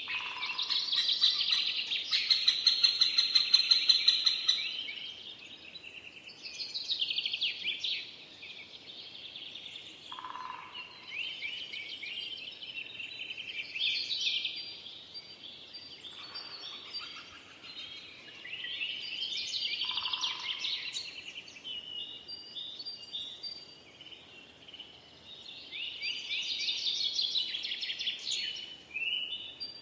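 Forest songbirds singing: bursts of quick, high trilling phrases come every few seconds, with a few short lower notes in between and a faint steady hiss beneath.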